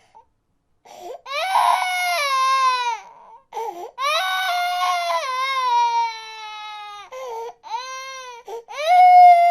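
Baby crying: after about a second of silence, a run of long wails, each falling in pitch at its end, with short catches of breath between them. The last wail is the loudest.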